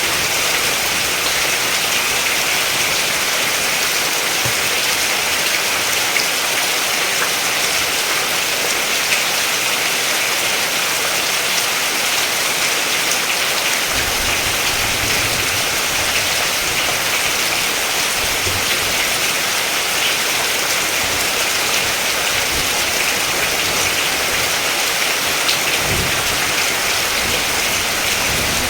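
Steady rain pattering with a dense, even hiss, with a couple of brief low rumbles about halfway through and again near the end.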